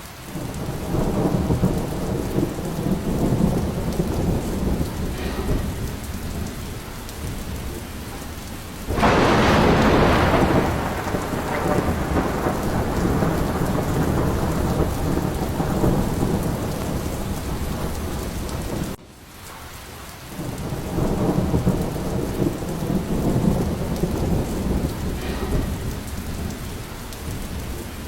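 Thunderstorm: steady heavy rain with low rolling thunder. A sudden loud thunderclap comes about a third of the way in and fades out slowly. The rumbling builds again in the second half.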